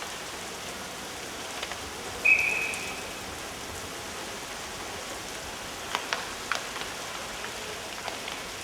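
A short, loud referee's whistle about two seconds in, signalling the penalty shot to begin, over a steady hiss of arena noise. A few sharp clicks follow later on.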